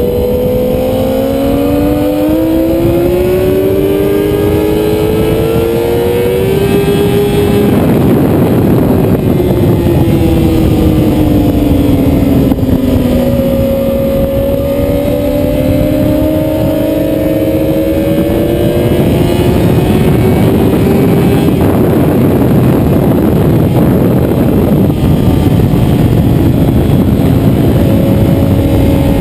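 Motorcycle engine at full song on a race track. Its pitch climbs for several seconds and drops sharply about six and a half seconds in, then falls and rises again as it brakes and accelerates, over a heavy rushing noise.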